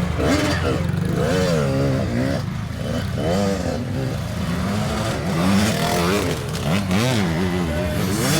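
Kids' dirt bike engines revving up and down again and again, the throttle worked on and off as riders pick their way through a slippery section, with some clatter and scraping.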